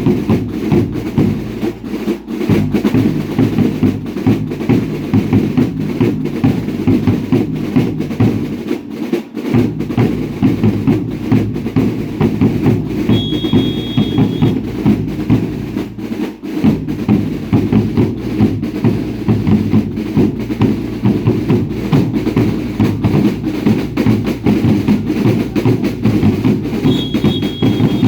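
Drums of a baile indio dance troupe beating a steady rhythm of about two strokes a second. A brief high tone sounds twice, about halfway through and near the end.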